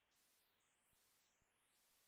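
Near silence: a pause between bursts of song.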